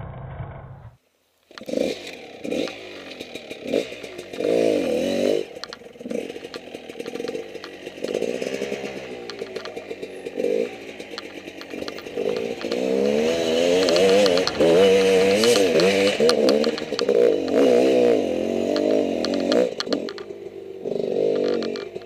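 Enduro motorcycle engine revving up and down over and over as the bike is ridden off-road, with clattering knocks over it. It starts after a short break about a second and a half in.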